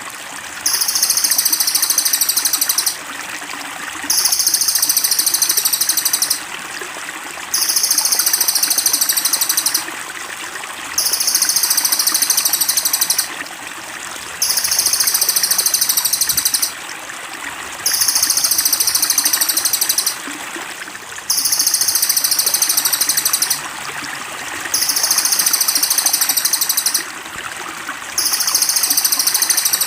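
A cililin songbird's high, rapid trill, each trill lasting about two and a half seconds and repeated at very even intervals, about nine times, over the steady trickle of running water.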